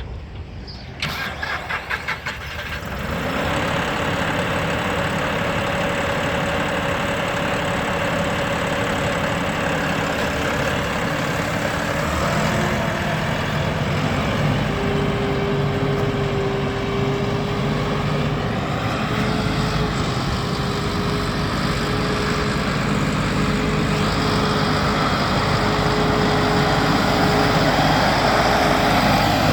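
John Deere 5060E tractor's diesel engine cranking on the starter for about two seconds, catching about three seconds in, then running steadily at idle.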